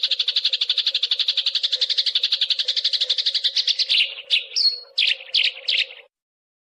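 Eurasian tree sparrows fighting: a fast, steady chatter of chirps, about ten a second, over a faint low hum. It breaks into a few separate chirps and one short whistled note near the end, then cuts off suddenly.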